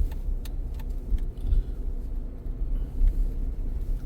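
Car driving along a road: a steady low rumble of tyres and engine, with a few faint ticks.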